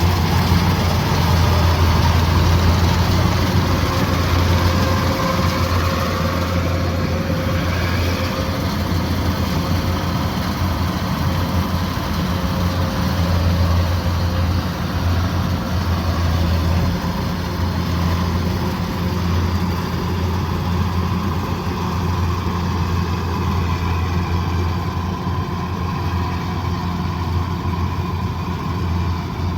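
Kubota DC108X combine harvester's diesel engine running steadily, a constant low hum with mechanical noise over it.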